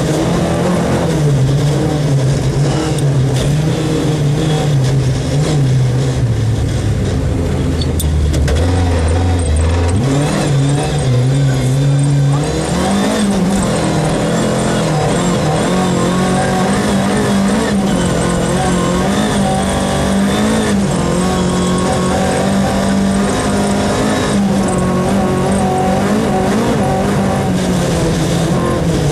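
Rally car engine heard on board, driven hard along the stage. The engine note drops and stays low a few seconds in, then climbs back up around a third of the way through and holds high, changing pitch as the driver works the throttle and gears.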